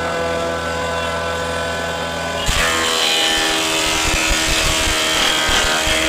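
An electric woodworking power tool running steadily. About two and a half seconds in, it starts cutting into wood, adding a rough hiss over the steady motor hum that lasts until the end.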